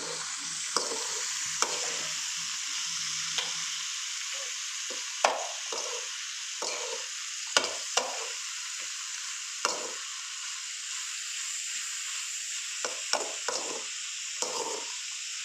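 Shredded cabbage frying in a metal wok with a steady sizzle, while a spoon stirs it, scraping and knocking against the pan at irregular moments.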